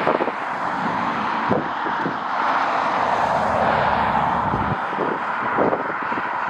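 Jet airliner engines rushing steadily as the plane passes, swelling toward the middle, with gusts of wind buffeting the microphone.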